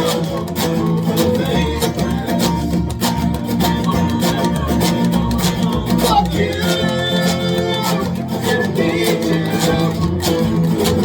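A live folk band playing: fast-strummed acoustic string instruments with a steady driving rhythm, and singing.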